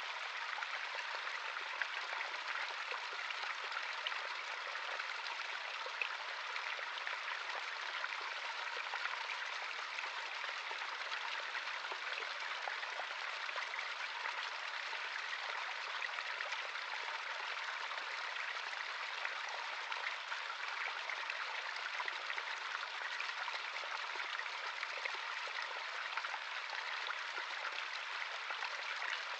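Stream of running water flowing over rocks: a steady splashing and babbling with fine trickling detail.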